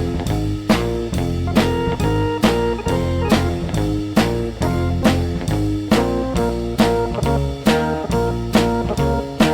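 Band music without vocals: guitar over a drum kit keeping a steady beat, in a blues-leaning style.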